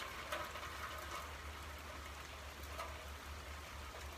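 Steady rain falling, with a few louder drips landing close by, the first and loudest just after the start, over a low steady rumble.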